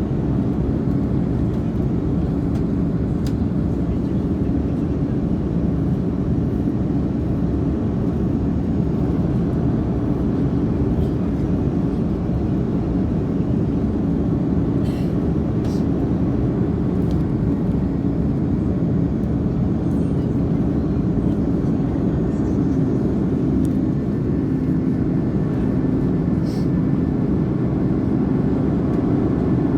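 Steady jet engine and airflow noise inside the cabin of an Airbus A330-300: an even, constant roar with a low hum and a few faint ticks.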